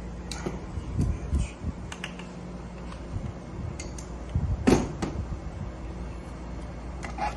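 Hand work on an engine under assembly: scattered clicks, taps and knocks of tools and parts, with one louder knock a little past the middle, over a steady low hum.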